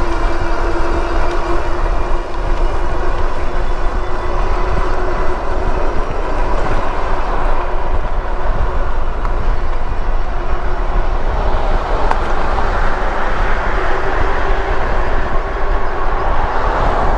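Wind rushing over the microphone while riding a Lectric e-bike along a road, with tyre hum and a steady whine running through it, the noise swelling in the last few seconds.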